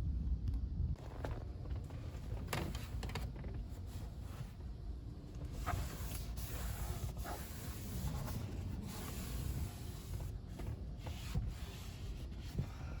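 Hand cleaning of a car interior: rubbing and wiping sounds with scattered light clicks and knocks as items are handled, over a low rumble.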